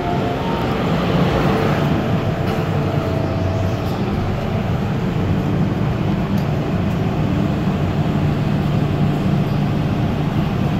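Steady hum and rumble inside an MTR M-Train metro car standing at a platform with its doors open, its on-board equipment running.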